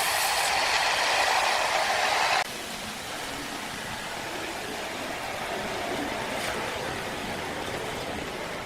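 Sawmill machinery running with a loud, steady noise that drops off suddenly about two and a half seconds in, leaving a quieter steady machine noise.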